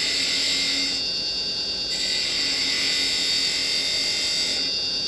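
Wood lathe running with a steady motor whine while a carbide chisel cuts the spinning wooden finial, the hiss of the cut stronger in two passes, at the start and from about two seconds in.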